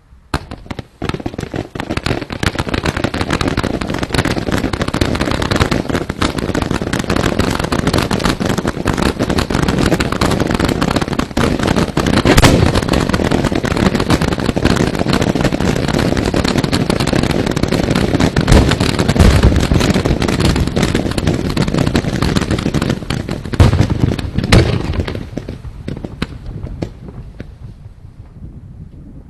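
Fireworks display: a dense, continuous barrage of bursting shells and crackle, with a few louder bangs, thinning out and fading about 25 seconds in.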